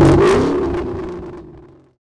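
Car engine revving, its rev dying away as the sound fades steadily and cuts out near the end.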